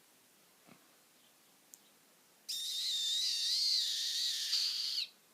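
A budgerigar giving one long, wavering, high-pitched whistled call, starting about halfway in and lasting about two and a half seconds.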